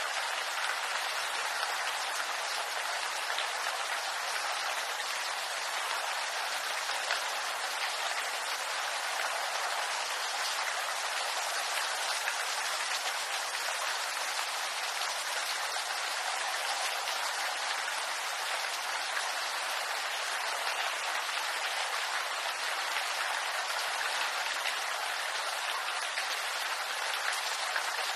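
Steady rain falling on bamboo leaves: an even hiss of many small drops, with no let-up.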